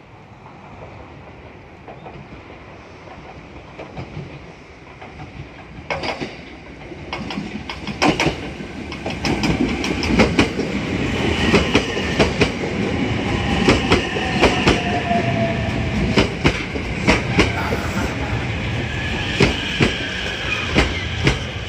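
Train running into earshot and passing close by, growing louder, its wheels clacking over rail joints in repeated groups from about six seconds in, with a faint whine that slowly drops in pitch near the end.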